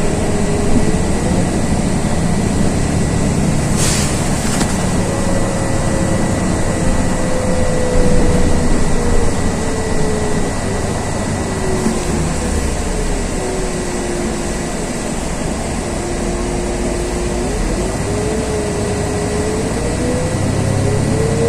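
Inside a LiAZ 6213.22 articulated city bus under way: steady road and engine noise, with a whine that rises and falls as the bus speeds up and slows down. A short rattle about four seconds in.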